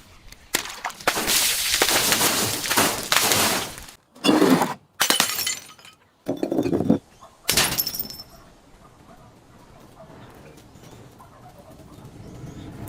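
A glass bottle being crushed and breaking: a long loud crunch, then several shorter cracks with the high ring and tinkle of glass shards. After about eight seconds it drops to a faint, steady background.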